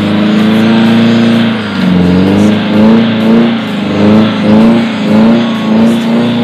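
Off-road 4x4's engine running under load in mud, steady at first, then revving up and down about twice a second as the driver works the throttle on the slope.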